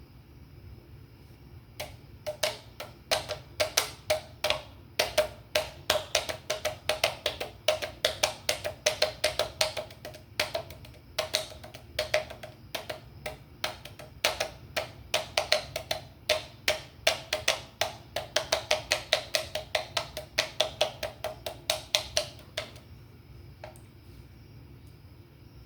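Rapid tapping on an aluminium beer can: quick runs of sharp, hollow-ringing taps, several a second, that start about two seconds in and stop a few seconds before the end.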